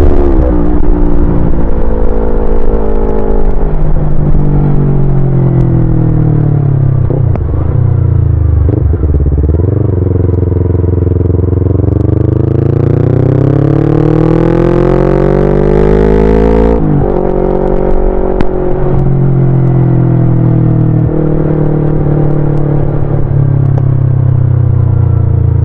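Yamaha YZF-R25's 250 cc parallel-twin engine running under way. Its pitch falls for the first several seconds, climbs steadily from about ten seconds in, drops suddenly about two-thirds of the way through, then holds fairly steady.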